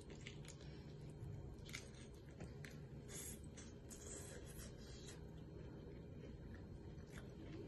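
A person chewing fried chicken close to the microphone: short wet crackles and mouth clicks, dense for about the first five seconds and then only a few.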